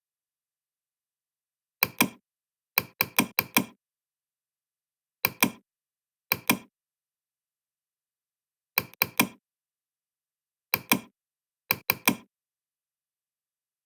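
Short, sharp knocks in quick pairs and clusters of two to four, seven groups in all, each stroke dying away within a fraction of a second. Dead digital silence lies between the groups, like separate recorded impact samples played back to back.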